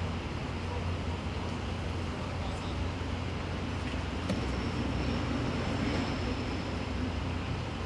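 Steady street noise with a constant low engine rumble, like vehicles idling and traffic, and a faint high thin tone in the middle seconds.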